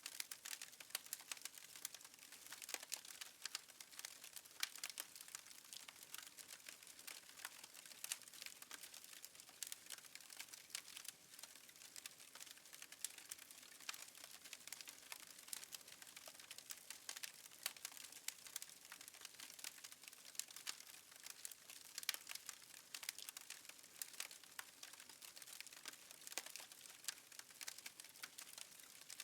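Faint, dense crackling of a wood fire: many quick irregular pops and snaps over a light hiss.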